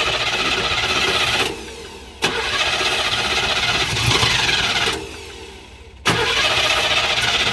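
A long-unused car's starter motor cranking the engine in three bursts of about two to three seconds each, the engine not catching. The people trying it put the no-start down to old fuel that has turned to jelly.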